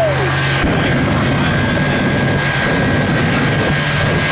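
Aircraft flying at an air show, heard as loud, steady engine noise with a thin, steady whine running through it.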